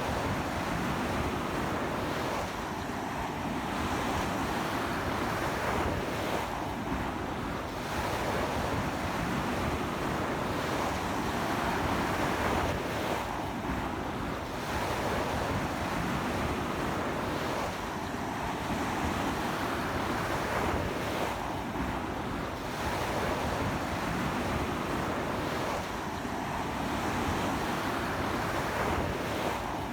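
Ocean surf breaking on a sandy beach in a strong sea wind: a continuous rush of water that swells and eases every few seconds.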